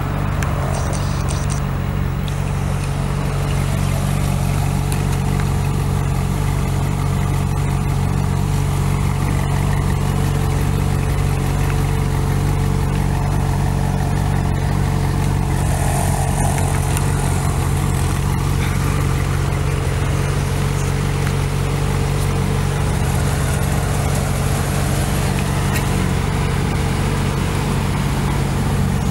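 A car engine idling steadily, a low, even hum that does not change.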